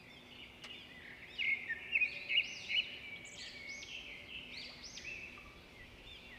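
Small birds chirping in quick repeated notes, loudest between about one and three seconds in, over a faint steady hum.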